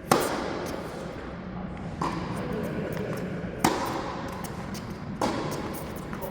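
Tennis ball struck by rackets in a rally, four sharp hits spaced about one and a half to two seconds apart, each with a short echo.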